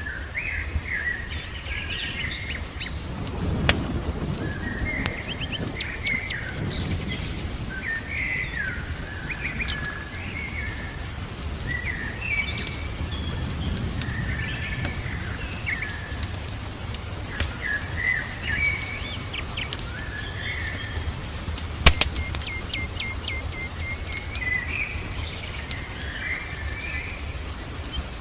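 Small songbirds chirping and singing in short, repeated phrases over a steady bed of fireplace crackle and rain, with a few sharp pops from the fire, the loudest a few seconds in and about two-thirds of the way through.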